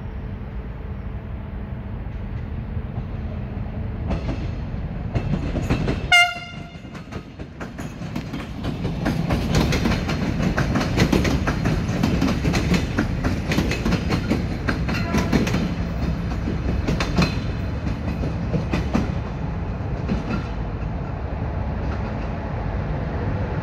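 A train horn gives one short, high blast about six seconds in. Then a train rolls past: a steady rumble of the cars with repeated clicking of wheels over the rail joints.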